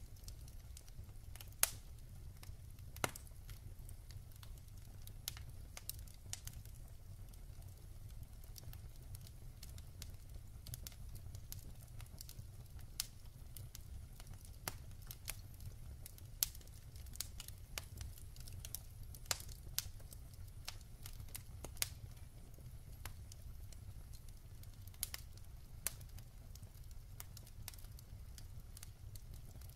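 Wood fire burning in a fireplace, the logs crackling and popping irregularly, with about a dozen sharper pops standing out over a low steady rumble.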